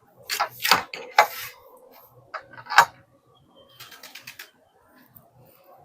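Racing pigeons' wings flapping: several loud swishing flaps in the first three seconds, then a quick run of about six wingbeats near the middle.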